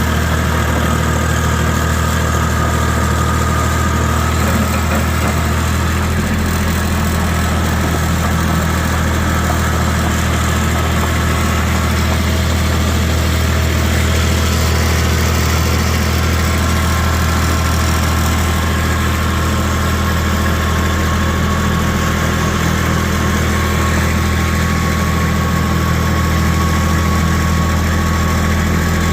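Vehicle engine running steadily, a low drone that keeps an even pitch throughout.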